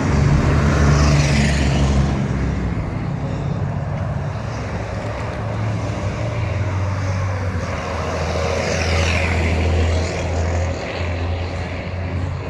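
Heavy truck engines droning low and steady, with vehicles passing by about a second in and again around nine seconds.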